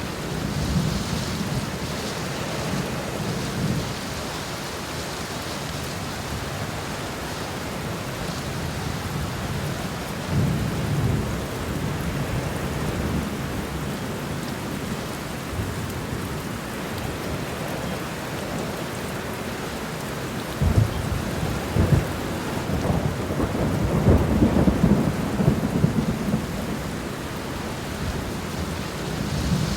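Steady rain falling, with low rolls of thunder coming and going, loudest and most jolting in the last third.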